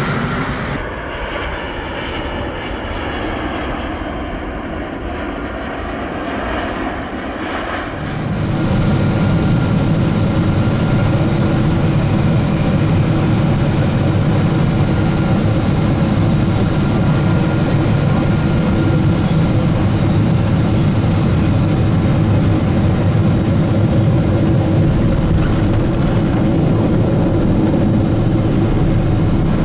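Boeing 777-200ER on its landing approach: steady jet engine noise with a faint steady whine. About eight seconds in, the sound jumps abruptly to a louder, fuller take.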